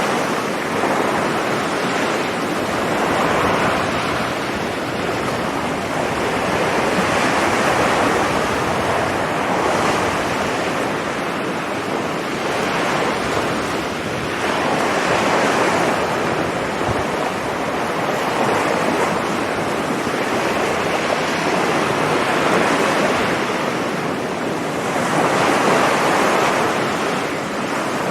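Sea waves breaking on a beach, a continuous wash of surf that swells and eases every few seconds as successive waves come in, with wind buffeting the microphone.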